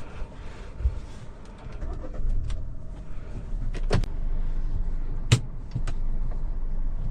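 Hyundai Creta's 1.5-litre four-cylinder petrol engine heard from inside the cabin as the car sets off: a low engine and road rumble that builds about two seconds in and then holds steady, with a few sharp clicks near the middle.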